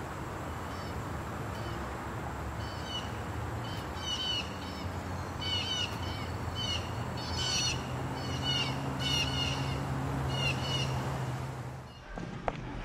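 Small birds chirping in short, repeated calls over a steady low rumble; the background cuts off suddenly near the end.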